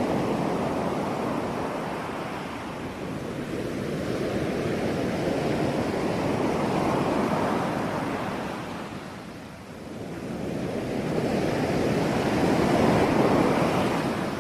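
Sea waves breaking on a shore, the surf swelling and ebbing, with a lull about two-thirds of the way through before a louder wave builds near the end.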